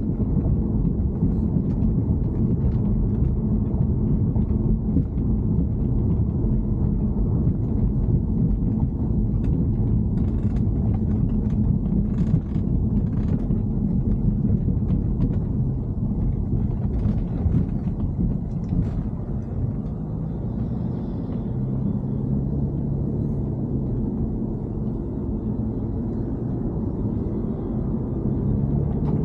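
Steady low rumble of a BMW E90 3 Series car running, with a few faint ticks around the middle and a low hum coming in near the end.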